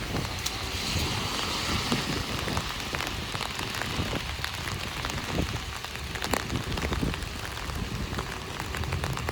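Heavy rain hitting an umbrella: a dense patter with many sharp individual drop ticks over a steady low rumble.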